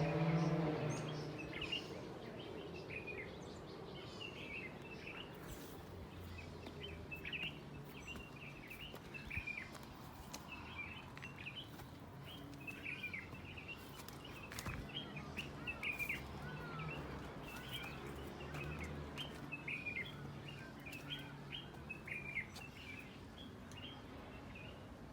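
Birds chirping: many short, quick calls repeating throughout, over a low steady hum of background noise.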